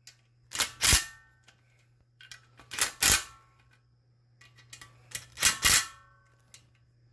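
Honda 190cc small engine being pull-started three times, each pull a short sharp rattle with a metallic ring from the recoil starter, the engine turning over without catching on old gas.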